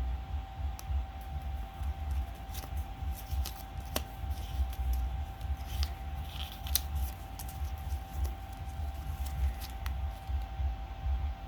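Scattered sharp snips and clicks as the plush house finch toy is cut open to reach its insides, over a steady faint hum and a low rumble.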